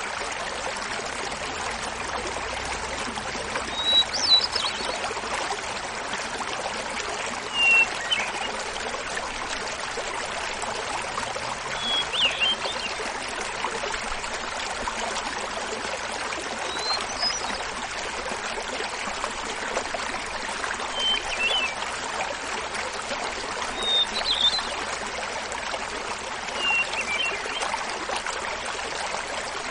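Small mountain waterfall splashing steadily while a hermit thrush sings its flute-like phrases. Each phrase is a held opening note followed by a quick flutter of notes, repeated about every three to four seconds at different pitches, about eight times.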